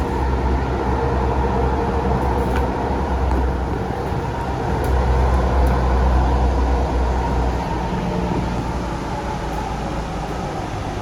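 Sound Transit Series 1 light rail train heard from inside the car as it runs along the track: a steady low rumble with a motor whine. The rumble eases off near the end as the train slows for its stop.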